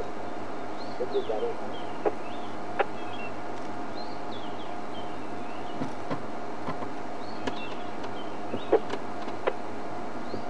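Bush birds chirping in short repeated calls over a steady hum, with scattered sharp cracks, the loudest one near the end.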